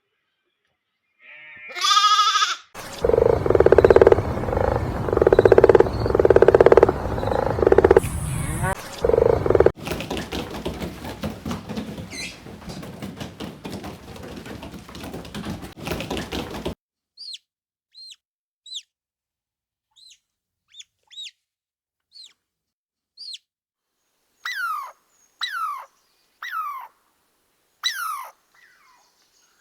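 A run of different animal sounds cut together: first a short bleat-like call, then a loud, rough, pulsing stretch. After that comes a quieter crackling stretch, then short, falling bird chirps with gaps between them, turning lower and longer near the end.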